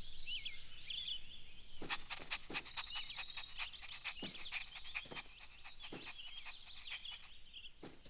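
Quiet birdsong: many small birds chirping and twittering in short high calls, with scattered sharp clicks.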